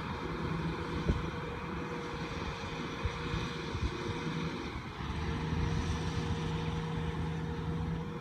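Farm machine's engine running steadily, easing off briefly a little before the middle of the second half and then picking up again, with a sharp knock about a second in.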